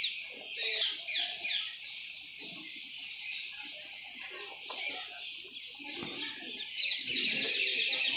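Many birds chirping in quick, short falling notes that overlap one another, busiest and loudest near the end.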